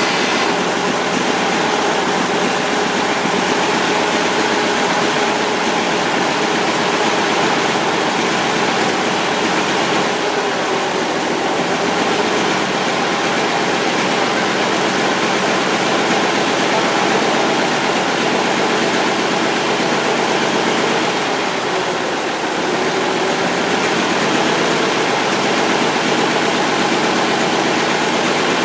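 Gardner 6LW six-cylinder marine diesel engine running steadily after an overhaul, its idle speed not yet set, with a brief dip in level about three-quarters of the way through.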